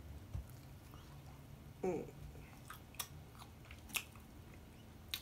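A person chewing food close to the microphone, with a few sharp mouth clicks and a short vocal sound about two seconds in.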